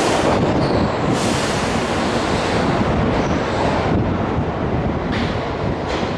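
Keihan electric train running in the underground station, a steady rumble slowly easing off, with two spells of high hiss over it.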